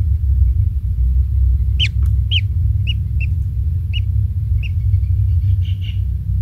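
Kingfisher calls: a run of short, sharp high notes starting about two seconds in, roughly two a second, then a brief flurry of fainter chirps near the end. Over a steady low rumble that is the loudest sound throughout.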